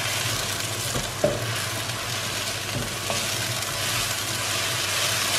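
Ground tomato puree sizzling in a wok with fried onions and green chillies while a spatula stirs it, tapping the pan a few times. This is the tomato frying down for the curry masala base.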